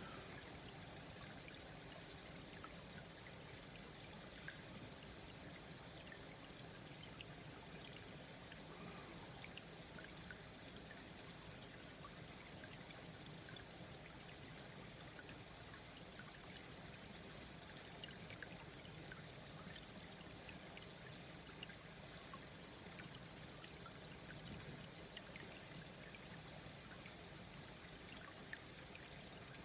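Small brook flowing slowly, a soft steady babbling with many tiny scattered splashes and drips.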